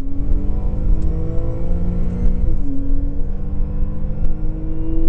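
Porsche 997.2 Carrera 4S's flat-six engine under acceleration, heard inside the cabin: its pitch climbs, drops sharply about two and a half seconds in as the PDK gearbox shifts up, then climbs again. A steady low rumble runs underneath.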